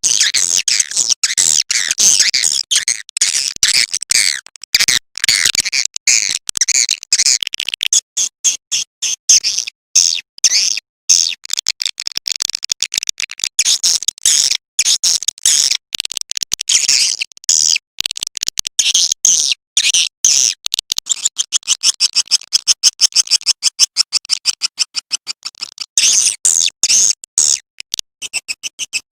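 Recorded swiftlet calling sound: dense, rapid high-pitched twittering and chirping of edible-nest swiftlets in quick runs broken by brief gaps. This is the kind of call track played to lure swiftlets into a nesting house.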